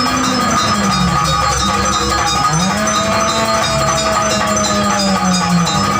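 Janger music: a sustained high ringing tone over a low melody that slides up and down in pitch, with bell-like metallic tones.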